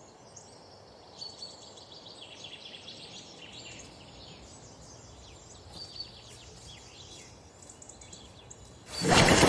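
Birds chirping over a faint steady background hiss. Near the end a much louder sound cuts in suddenly and carries on.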